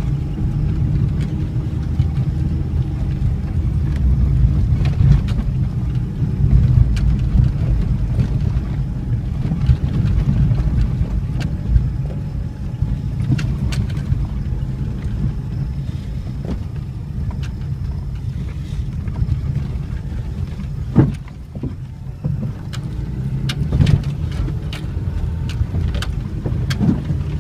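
Vehicle driving over a bumpy unpaved road: a steady low rumble with scattered knocks and rattles as it hits the bumps, easing off briefly about three quarters of the way through.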